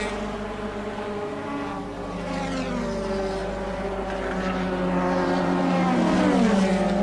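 Engines of 1984 Formula One cars at racing speed, several heard at once. Their pitches fall a few times as cars pass or brake, and one engine note grows steadily louder toward the end.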